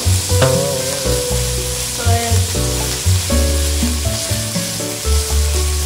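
Chicken pieces sizzling in hot oil with onion and garlic in a nonstick wok, stirred and scraped with a plastic spatula, over background music with a heavy bass line.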